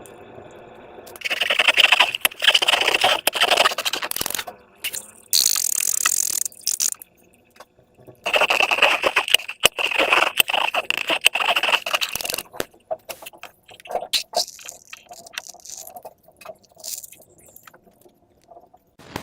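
Slime and transparent rubber balloons being handled: two long stretches of rubbing, scraping noise with crackles, a shorter burst between them, then scattered small clicks and crackles.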